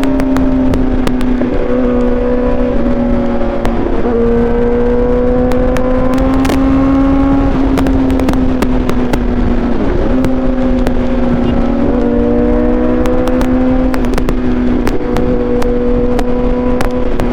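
Suzuki GSX-R750's inline-four engine running at steady high revs under way, its pitch dipping and climbing a few times as the throttle changes, over wind rumble on the microphone.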